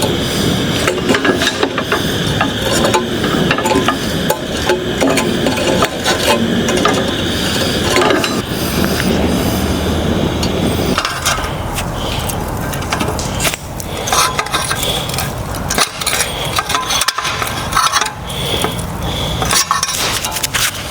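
Steel forging tools clinking and tapping on the thin steel petals of a forged rose, many quick metallic knocks, over a steady rushing bed that drops away about halfway through.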